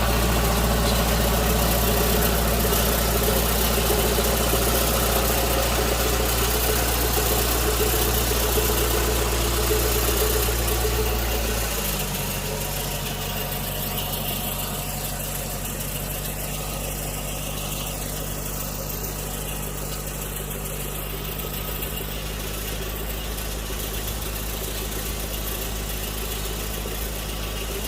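Tractor engine running steadily. A little under halfway through, its note shifts and it becomes somewhat quieter.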